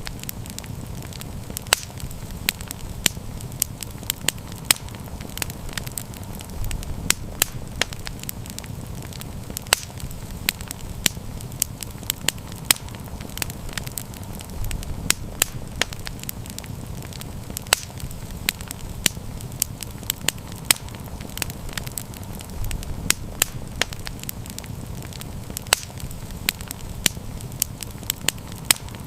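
Campfire burning with irregular sharp crackles and pops, several a second, over a steady low rumble of the flames.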